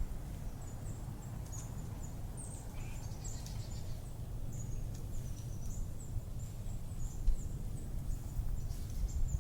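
Birds giving many short, high chirps over a steady low rumble of wind on the microphone.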